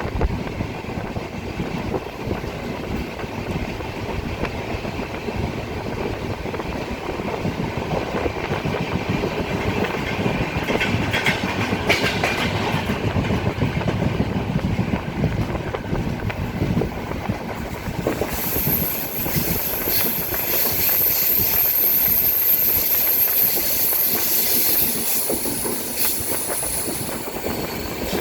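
Train running along the rails, wheels clattering over the track, a steady rumble. About two-thirds of the way through, a high-pitched whine joins in for several seconds.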